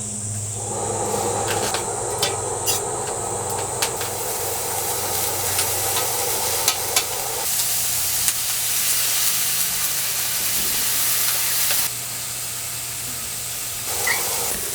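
Food sizzling in a hot pan, with a few sharp clicks of utensils in the first few seconds. The sizzle grows louder about four seconds in and eases off near the end.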